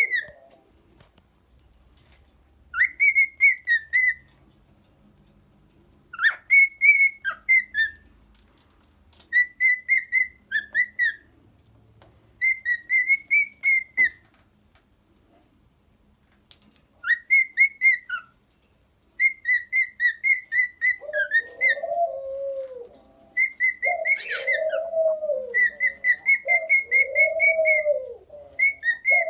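Cockatiel singing: short phrases of rapid whistled notes, each a second or two long, repeating every few seconds with pauses between. From about two-thirds of the way through, a lower cooing call repeats under the whistling.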